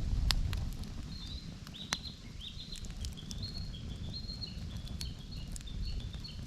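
Wood campfire crackling with scattered sharp pops over a low rumble, while from about a second in a small bird sings a steady run of short high notes.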